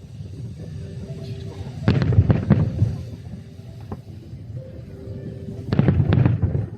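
Aerial fireworks shells bursting: a quick cluster of bangs about two seconds in and another near the end, each with a low rumble.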